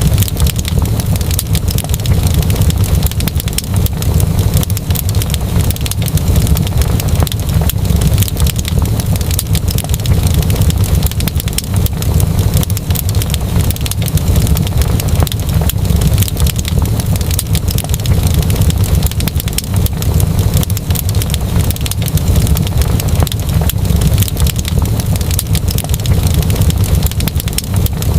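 Wood fire crackling with dense, continuous pops over a steady low rumble.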